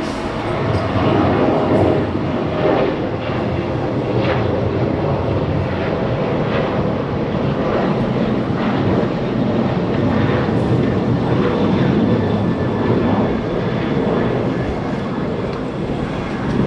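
Boeing 737-800's CFM56-7B turbofan engines running, a loud, steady jet noise with a few brief knocks along the way.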